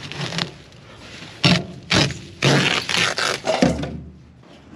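Several loud bursts of clattering and scraping from things being pulled and moved about inside an old pickup truck's cab. The noise is densest in the second half and stops short before the end.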